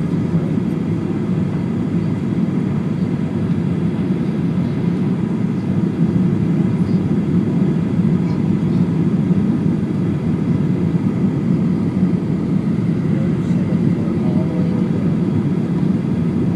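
Steady cabin noise inside a Boeing 737-800 in flight: engine and airflow noise forming an even, low drone with no distinct events.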